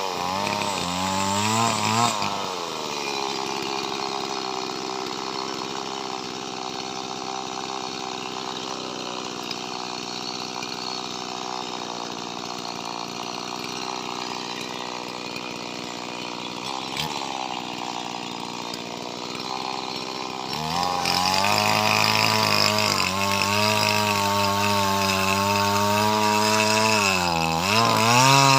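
Small Stihl two-stroke chainsaw revving briefly, then running steadily at a lower speed for most of the stretch. Near the end it is opened up louder and higher, its pitch dipping and recovering as it cuts wood.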